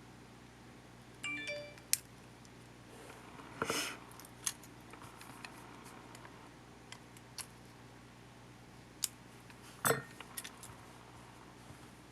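Small parts and tools being handled while a compact camcorder is taken apart: scattered light clicks and taps, a short squeak about a second in, a brief scrape about four seconds in, and the sharpest click near the ten-second mark.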